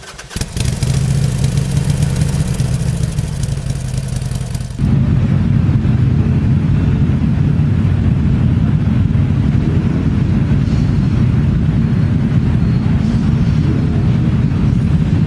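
Motorcycle engines running, a steady low rumble. About five seconds in the sound changes suddenly to a louder, deeper rumble with less hiss on top.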